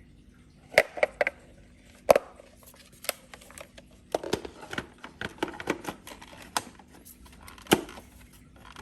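Irregular clicks and knocks of hard plastic being handled, a Roomba 980 robot vacuum's dust bin being fitted back into the robot, with a few sharp snaps and a run of softer rattles in the middle.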